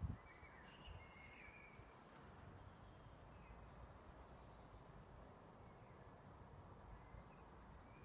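Near silence: faint birdsong, short chirps and whistles now and then, over a low rumble, with a brief low thump at the very start.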